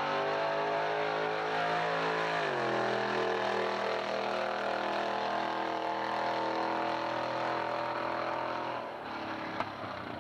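Pontiac 400 V8 of a 1968 Firebird at full throttle on a drag strip pass. Its rising engine note drops with a gear change about two and a half seconds in, then pulls steadily again and fades near the end as the car draws away.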